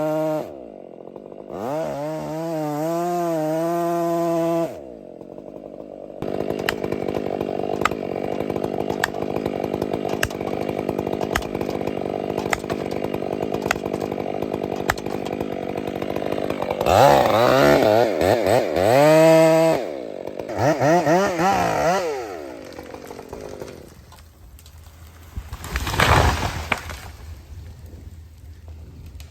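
Chainsaw running and cutting timber: the engine revs up and down, bogs into long steady stretches of cutting, and drops back toward idle several times.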